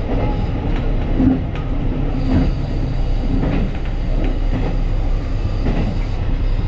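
A diesel railcar train running on the rails: a steady low rumble with scattered wheel clicks and brief squeals.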